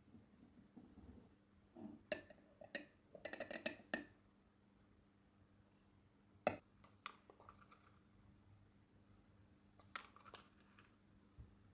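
Light clinks and knocks of dishes, glassware and cutlery being handled. There is a quick cluster of ringing clinks about two to four seconds in, a single sharp knock near the middle, and a few softer clinks toward the end.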